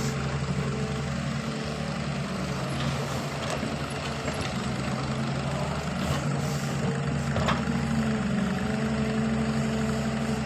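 Heavy earthmoving machine's engine running steadily, with a few faint short knocks around the middle.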